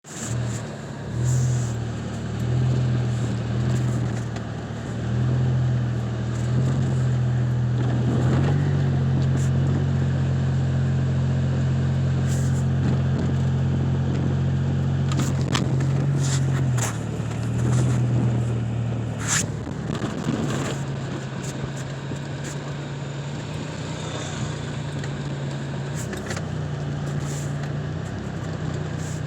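Car driving: a steady low engine drone with road and tyre noise, its pitch and level shifting a few times, and a few short clicks here and there.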